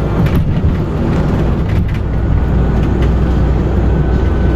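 Steady low rumble of a moving vehicle heard from inside the cabin, with a faint steady whine and a few small clicks.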